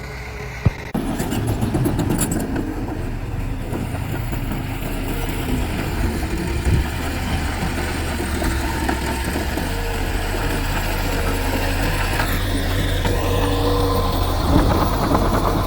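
Heavy diesel earthmoving machinery running steadily with a low rumble, becoming suddenly louder about a second in.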